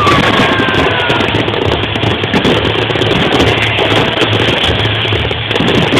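Aerial fireworks bursting in a dense, continuous barrage, with music playing for the show alongside.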